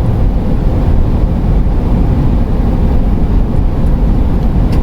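Steady road and engine noise inside a camper van's cab while driving: a loud, even low rumble with no change.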